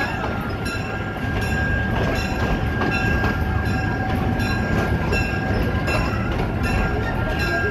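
Passenger train rolling slowly on the track: a steady rumble with a clack about twice a second as the wheels cross rail joints, over a faint steady high whine from the wheels.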